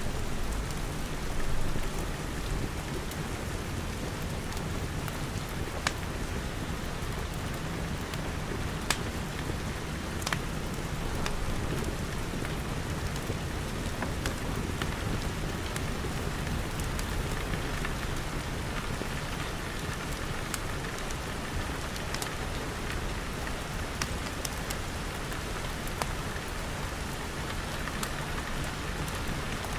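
Steady rain pattering on glass, with scattered sharp pops and snaps from a crackling wood fire.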